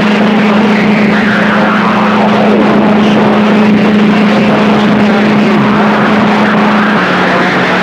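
CB radio receiver putting out loud static with a steady low heterodyne whistle from stations transmitting on top of each other, and faint garbled voices running through the noise. The whistle drops slightly in pitch near the end.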